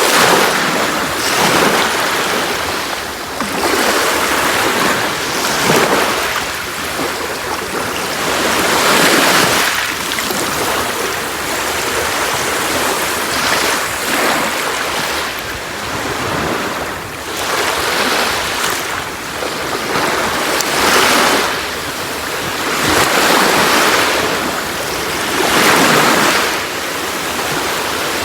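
Sea waves washing onto a shore, the surf rising and falling in irregular surges every few seconds.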